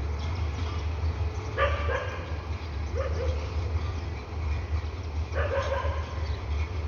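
A dog barking in three short bouts, about a second and a half in, at about three seconds, and again about five and a half seconds in, over a steady low rumble.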